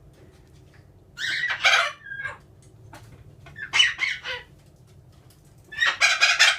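Chickens clucking and squawking in three short bursts, about one, four and six seconds in, over a faint steady low hum.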